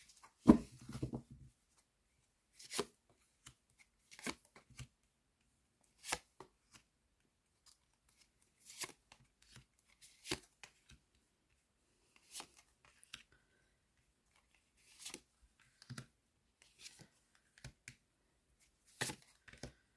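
Tarot cards being handled: shuffled and laid down, short flicks and slaps spaced a second or two apart, with a louder clatter about half a second in.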